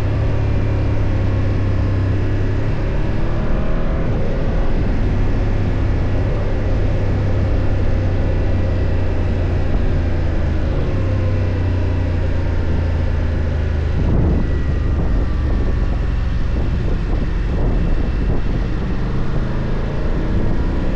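BMW F 800 GS parallel-twin engine running while riding, its pitch rising and falling with the throttle and gear changes, with a brief dip about fourteen seconds in.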